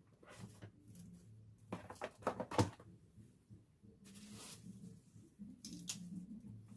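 Kitchen handling noises as food is packed away: a run of clicks and light knocks, loudest in a cluster about two to two and a half seconds in, a short rustle about four seconds in, and a few more clicks near the end.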